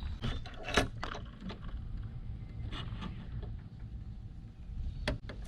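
A few sharp clicks and knocks of stainless-steel parts being handled, the loudest about a second in and two more near the end, over a steady low rumble.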